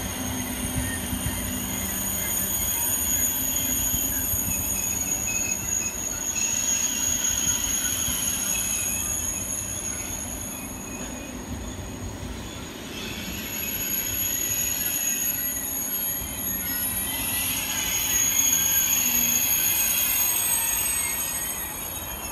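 Eurostar Class 373 high-speed train moving slowly past along the platform, with steady high-pitched tones over the running noise. The level rises and falls twice as the carriages go by.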